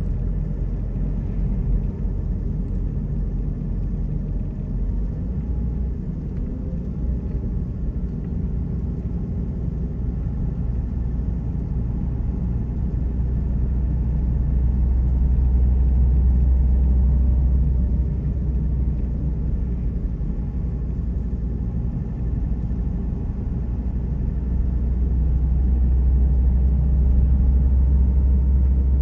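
A car driving, a steady low rumble of engine and road noise that grows louder about halfway through and again near the end.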